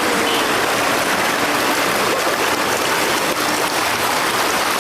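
A fast-flowing river rushing steadily, its current loud and unbroken.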